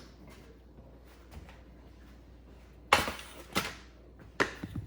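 Three sharp clanks of kitchen metalware, such as a broiler pan or the oven door being handled, after a quiet stretch. The first clank, about three seconds in, is the loudest.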